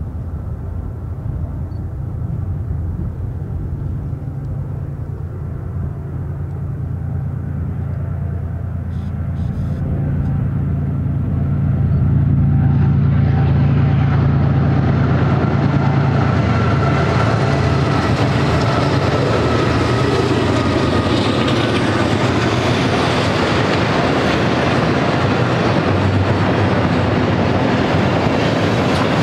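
BNSF double-stack intermodal freight train led by GE ES44C4 diesel locomotives approaching and passing: the low drone of the diesel engines grows louder over the first dozen seconds, then gives way to the steady rumble of the stack cars' wheels on the rails as the train runs by.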